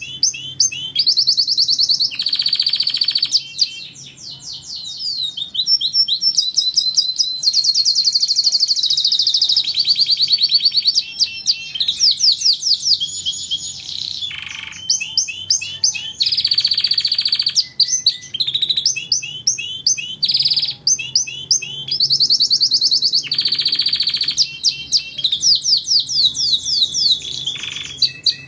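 Domestic canary singing a long, unbroken song of rapid high trills and rolls, with several held buzzy trills lasting about a second each.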